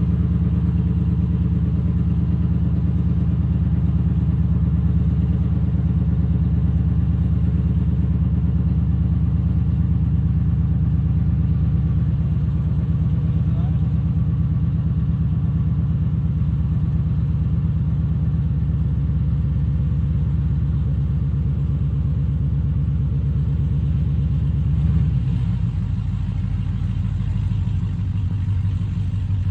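Drag car's engine idling loudly and steadily, dropping to a lower, rougher idle about 25 seconds in.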